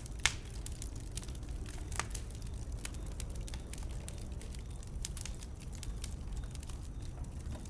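Wood burning in a bonfire, crackling with many irregular sharp pops over a steady low rumble. The loudest pops come just after the start and about two seconds in.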